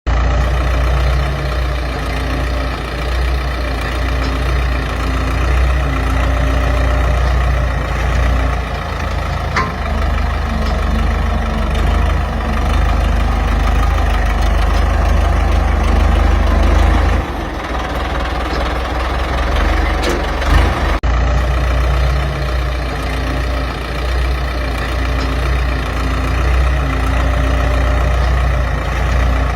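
Ford 6600 tractor's three-cylinder diesel engine running steadily with a low, pulsing note. The sound shifts a little past halfway, and there is a brief break about two-thirds in, after which the engine runs on as before.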